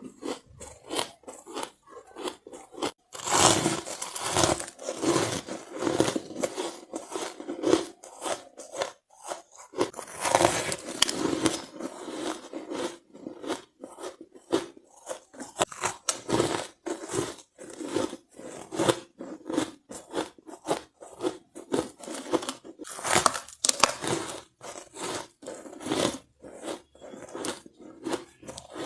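Close-up crunching of white ice being bitten and chewed in the mouth, a rapid, irregular run of crisp crunches with several louder bursts of big bites.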